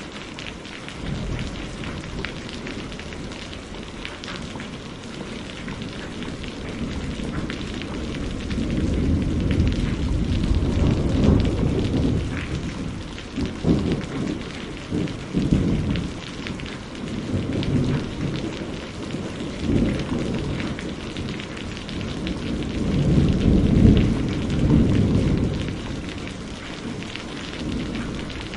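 Steady rain with thunder rumbling in long low rolls. The thunder swells about a third of the way in and again near the end, with sharper cracks of it in between.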